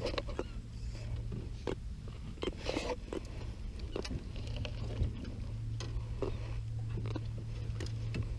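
Scattered small clicks and knocks from handling, as a caught fish is unhooked and released, over a steady low hum.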